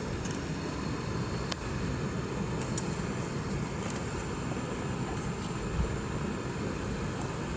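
Steady low rumble and hiss of a Boeing 717's Rolls-Royce BR715 turbofan engines, with a few faint clicks.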